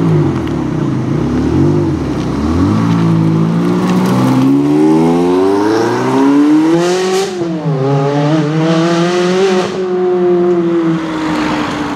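Ferrari 360's V8 revving and pulling away hard. The pitch falls and rises, then climbs steadily, dips briefly at a gear change about seven and a half seconds in, and settles into a steady high drone near the end.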